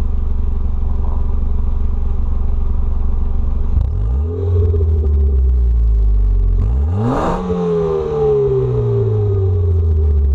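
2003 Ford Focus ZX3's 2.0-litre four-cylinder engine with its muffler removed, idling with a loud exhaust note. About four seconds in it is blipped once and drifts back down; about seven seconds in a quicker, sharper rev peaks and settles back toward idle.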